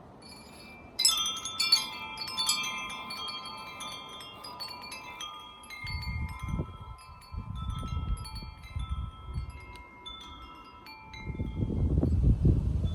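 Metal wind chimes ringing: many notes struck together about a second in, then scattered single notes that ring on and fade. Bursts of low rumble come in during the second half.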